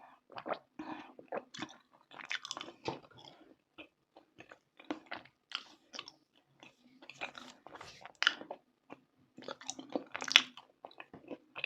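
A person biting and chewing dry, crunchy chunks of edible chalk-like clay, in irregular sharp crunches with quieter grinding between; the loudest crunch comes about ten seconds in.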